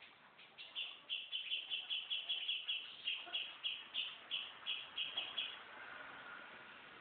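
A bird singing a rapid string of short, evenly repeated high notes, about three or four a second, for about five seconds, then stopping.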